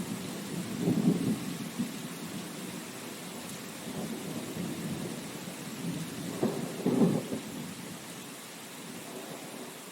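Steady rain hissing, with low rolling rumbles of thunder swelling about a second in and again around six to seven seconds in, then fading away.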